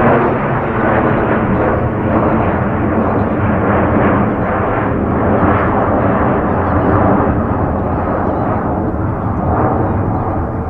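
Jet airliner engines heard close by: a loud, steady, rumbling roar with no clear rise or fall.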